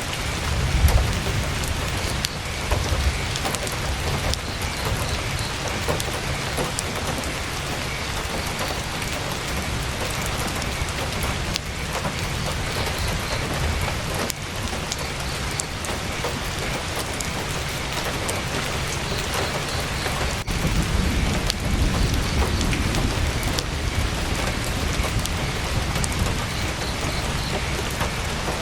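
Heavy rain drumming steadily on tent fabric, dotted with sharp clicking drops or crackles. Low rumbles swell up about a second in and again about two-thirds of the way through.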